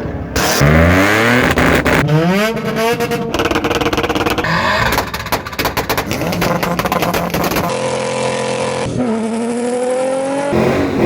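Several short clips of car engines revving hard, cut one after another. The engine pitch climbs quickly, then holds at high revs, and in places there is rapid popping from the exhausts.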